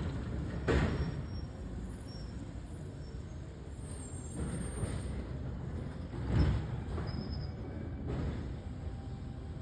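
Recycling collection truck running with a steady low rumble, with two sharp thuds, one about a second in and a louder one about two-thirds of the way through.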